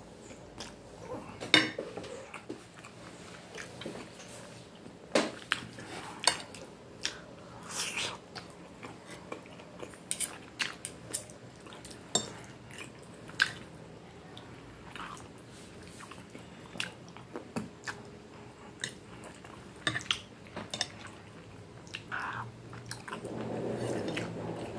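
Close-miked wet chewing and mouth smacks of someone eating pasta and meatballs in tomato sauce, in irregular clicks, along with a knife and fork clinking and scraping on a plate.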